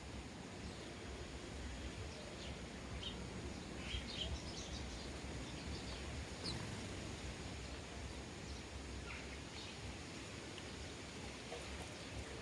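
Sparrows chirping, short scattered chirps with gaps between them, over a steady low rumble.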